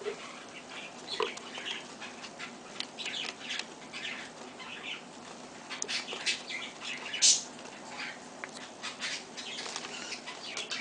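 Pet baby birds chirping and fluttering: many short, high calls scattered irregularly, with the loudest one about seven seconds in.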